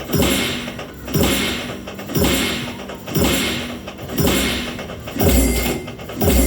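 Poker machine sound effects: a low thud with a ringing, fading tail, repeating evenly about once a second as the reels spin and land.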